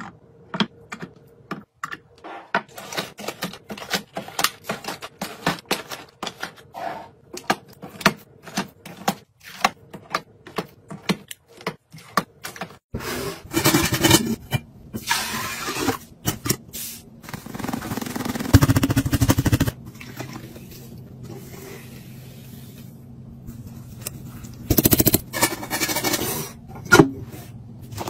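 Containers and packaging being handled and set down: a quick run of clicks and taps, then, after an abrupt change about halfway through, a steady low hum under bursts of rustling and scraping.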